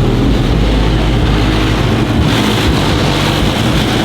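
Car engines running close by with a steady low exhaust rumble, and a louder hiss joining a little over two seconds in.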